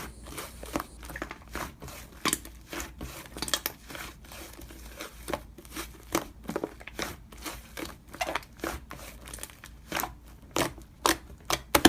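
Irregular crinkling and clicking handling noises, several small crackles a second with no steady tone.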